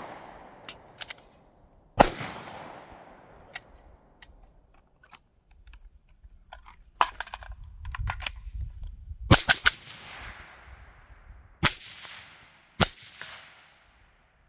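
Firearm shots fired one at a time: about five loud cracks, about two seconds in and then in a cluster from about nine to thirteen seconds in, each trailing off in echo, with fainter sharp pops and clicks between them.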